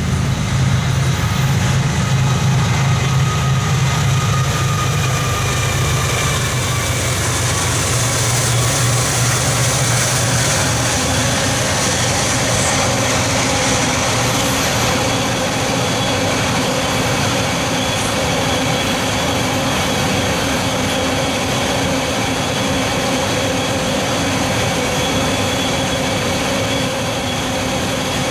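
Diesel-hauled train passing close by: the locomotive engine's heavy low hum is strongest in the first half, then steady rolling and rail noise continue with a few held tones.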